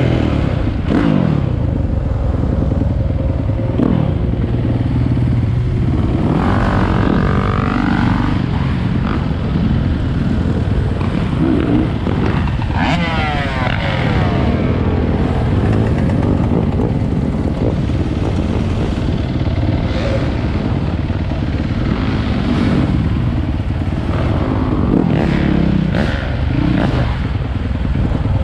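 Dirt bike engines running and revving, their pitch rising and falling repeatedly, with a sharp climbing rev around the middle.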